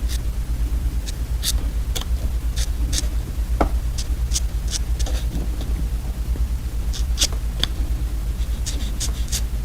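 Close-miked crisp clicks and crinkles, irregular, one to three a second, over a steady low hum.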